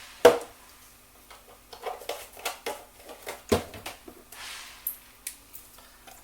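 Kitchen handling sounds: a sharp knock about a quarter second in and another at about three and a half seconds, with scattered lighter clicks and rattles, as ingredient containers and utensils are put down and picked up.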